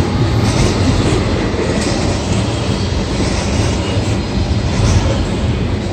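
Double-stack intermodal container cars of a freight train rolling past: a steady, loud rumble of steel wheels on the rails.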